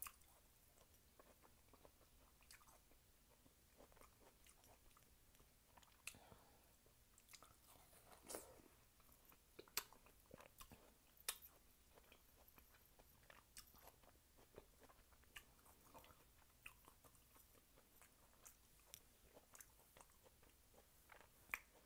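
Faint chewing and biting of fresh watermelon: scattered soft mouth clicks, with a few louder bites about eight to eleven seconds in.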